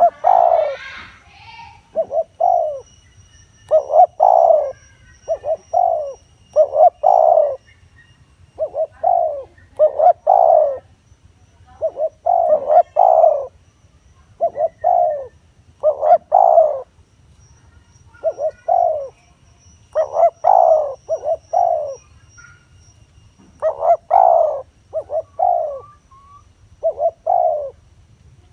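Spotted dove cooing over and over, each phrase a short group of two or three low notes, with a new phrase about every one to two seconds.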